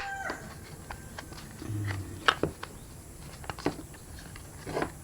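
Scattered clicks and knocks of plastic and metal kettle parts being handled and fitted back together, about five sharp taps spread over the few seconds, with a short low hum near the middle.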